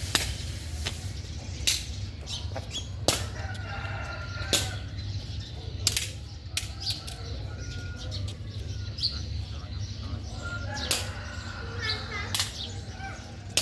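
Sharp claps about every second and a half, among short bird chirps, over a steady low hum.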